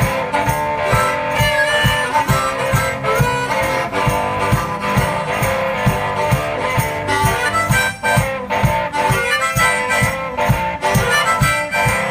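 One-man-band blues: a harmonica playing bent, wailing lines over a strummed acoustic guitar and a steady low beat.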